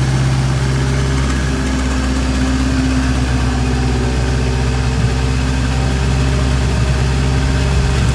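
Toyota 2AZ 2.4-litre four-cylinder petrol engine running at a steady idle on an engine test stand.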